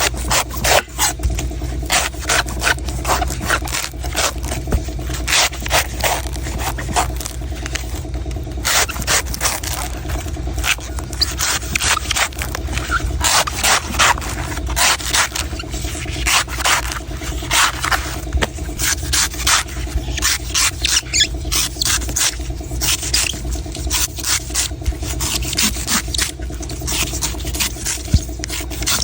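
A knife scraping and shaving a coconut in quick, irregular strokes, several a second, over a steady low hum.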